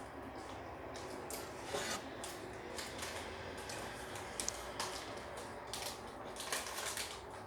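Hands squishing and working slime, a continuous rubbing with irregular sticky clicks and crackles.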